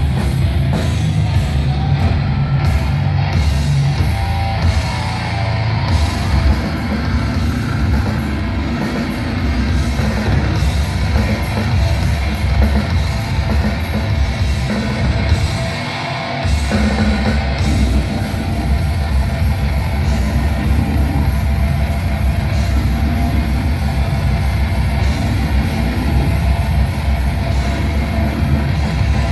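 Live death metal: heavily distorted, down-tuned guitars and bass over dense drumming, with a brief drop in the low end about 16 seconds in before the full band comes back in.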